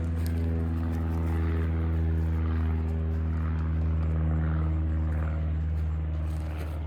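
A motor engine drones steadily at a constant low pitch, with no revving or change in speed.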